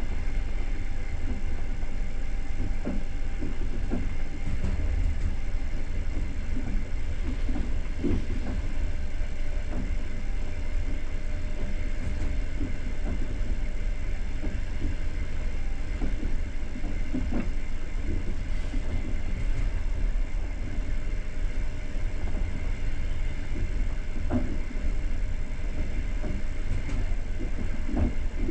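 Running noise inside a passenger coach moving along the line: a steady low rumble of wheels on rails, with a few scattered knocks from the running gear.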